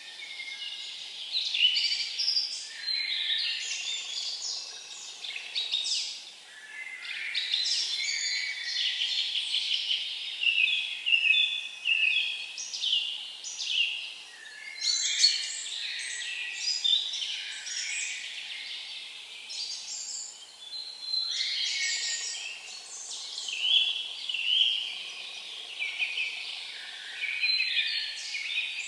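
Songbirds singing, one chirping, trilling phrase after another with short pauses in between.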